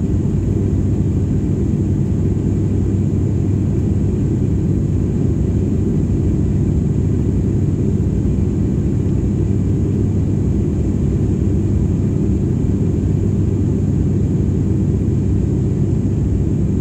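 Steady drone of a passenger airliner's engines and airflow heard inside the cabin in flight: a loud, even low rumble with a faint high hiss above it.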